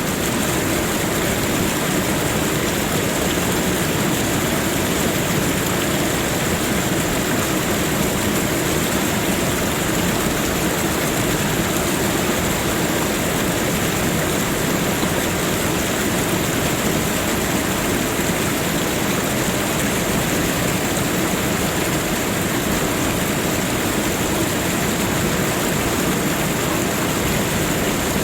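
Steady, unbroken rushing water, like a stream or waterfall, with a thin, steady high-pitched hiss running above it.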